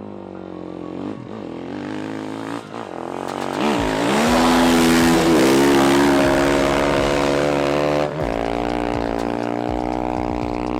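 Dirt bike engine on a ski-fitted water bike, revving and growing louder. Its pitch climbs about four seconds in, dips briefly, then drops sharply near eight seconds in and holds steady.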